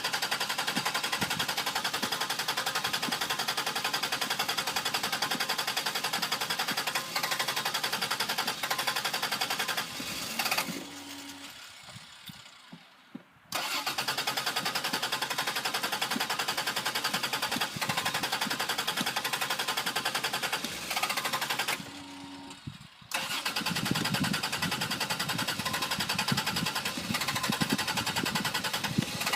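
Chrysler New Yorker engine being cranked over by the starter in three long stretches of about ten seconds, with short pauses between them, never catching: the car won't start. A brief steady tone sounds in each pause.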